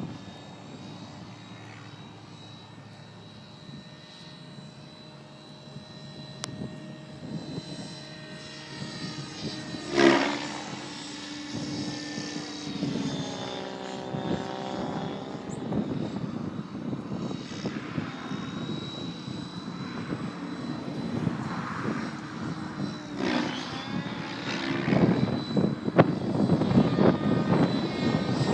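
Align T-Rex 700E electric RC helicopter flying 3D manoeuvres: a steady high motor whine over rotor blade noise that rises and falls in pitch as the blades load up, with one sudden loud burst about ten seconds in.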